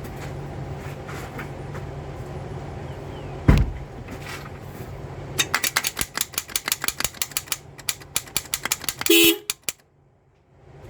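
A heavy thump, then the Toyota Solara's starter solenoid chattering fast, about seven clicks a second for some three seconds, without cranking the engine: the starter is hitting a dead spot and not engaging, typical of a poor battery connection. A short car-horn toot follows right after the clicking stops.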